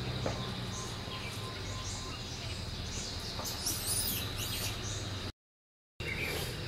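Forest birds chirping and twittering, busiest a little past halfway, over a steady high hum. The sound cuts out suddenly for under a second near the end.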